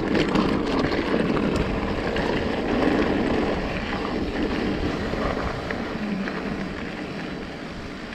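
Wind buffeting the microphone outdoors: a gusty low rumble and rushing noise that eases off near the end.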